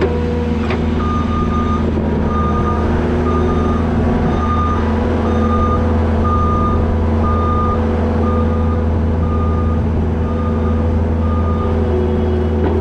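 Skid steer's backup alarm beeping steadily, about one beep a second, over the engine running: the machine is reversing. The alarm starts about a second in and stops near the end.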